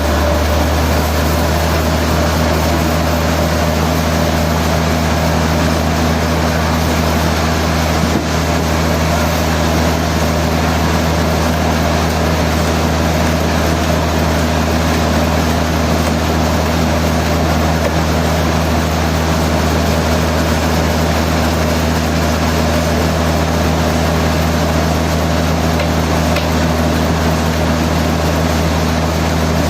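Sawmill machinery running steadily: a loud, even machine drone with a deep hum and a few constant tones, with no cutting strokes or changes in speed.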